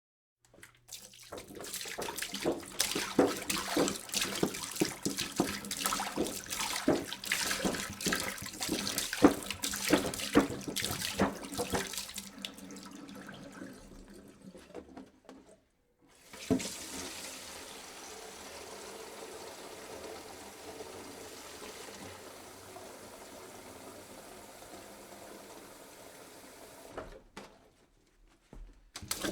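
Water poured into a jug: splashy and uneven at first, then after a short break about halfway, a smoother, steady stream that stops shortly before the end and starts again just as it ends.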